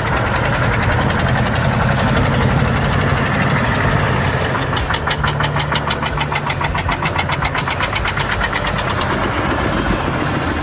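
Porsche Junior 108's air-cooled single-cylinder diesel engine running, a fast, even knock of single firing strokes.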